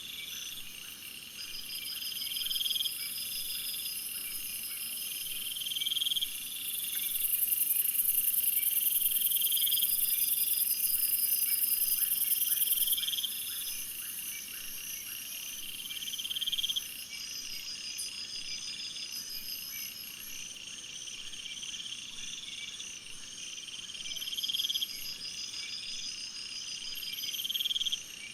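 Chorus of calling insects: a short trill repeating about every two seconds over a fainter pulsed call, with a loud, very high, steady buzz for about six seconds in the first half.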